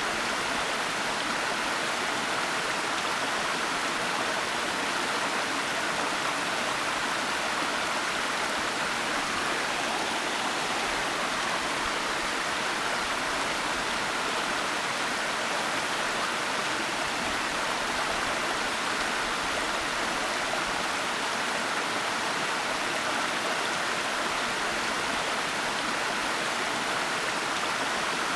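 Continuous rushing water of a waterfall, an even, unchanging hiss with no breaks.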